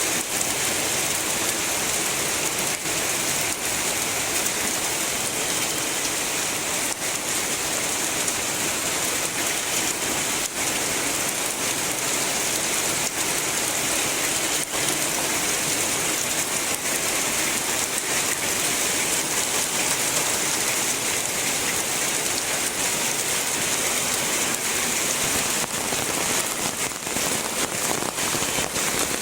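Heavy rain falling steadily: a dense, even hiss with the odd sharper drop hit.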